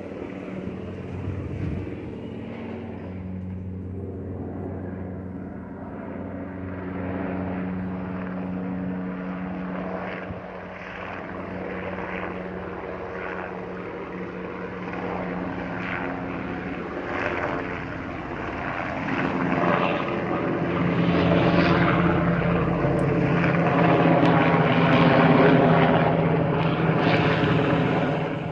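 Sikorsky S-92A helicopter flying past, its rotor and turbine engines making a steady droning sound with a fine flutter. It grows louder in the second half as it comes closer.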